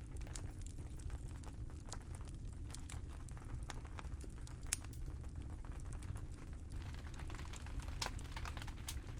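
Rain drops ticking irregularly on a tent, over a steady low rumble of wind.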